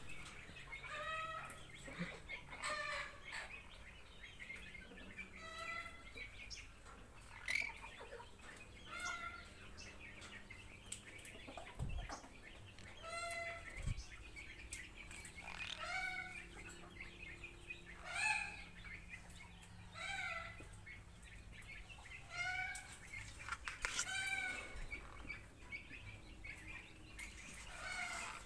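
Birds calling over and over, short arched calls about every second or two, with a faint steady hum underneath.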